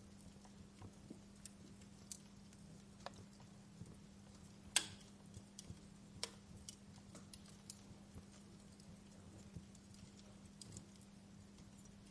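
Wood fire in a fireplace crackling: scattered, irregular sharp pops and snaps, the loudest about five seconds in, over a faint steady low hum.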